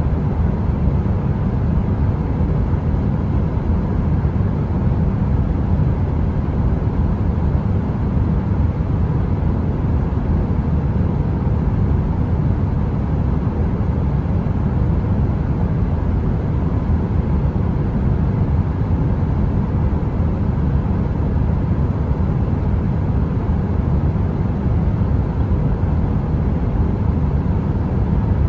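Space heater's steady low rumbling noise, heavy in the bass, with a faint steady hum on top and no crackling.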